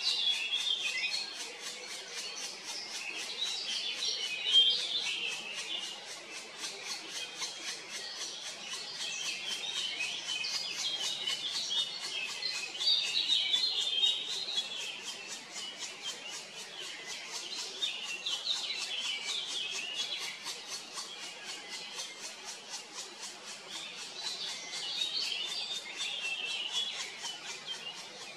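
Birds chirping and twittering in repeated bursts every few seconds, several quick notes at a time.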